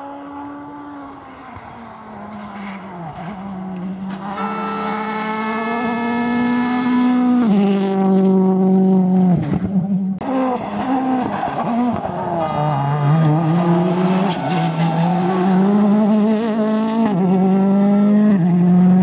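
World Rally Car's 1.6-litre turbocharged four-cylinder engine revving hard and changing gear, the engine note stepping up and down in pitch. It grows steadily louder as the car comes closer.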